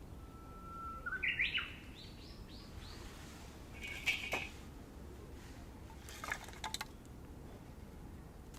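A bird singing: one long, steady whistled note, then a quick run of louder, higher notes. A sharp sound follows a couple of seconds later, then a few quick clicks.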